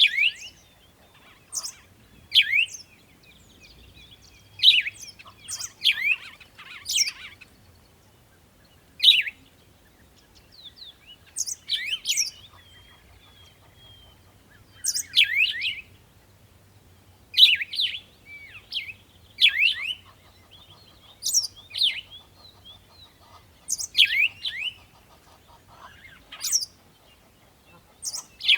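A bird chirping: short, sharp, falling chirps repeated irregularly, often two or three in quick succession.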